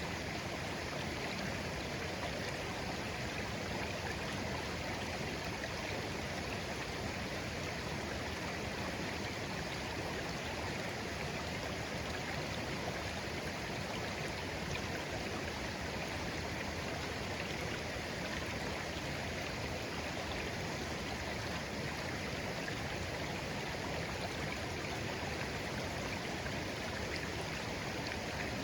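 Shallow, clear stream flowing gently over stones: a steady, even burble of running water.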